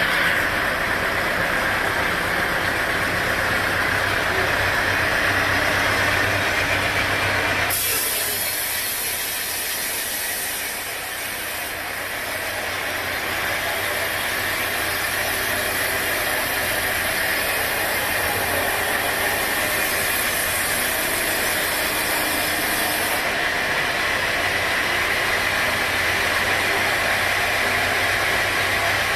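Sawmill machinery running steadily, with an engine hum and mechanical noise. The sound changes abruptly about eight seconds in: the low hum drops away and a high hiss comes in, then the hum returns near the end.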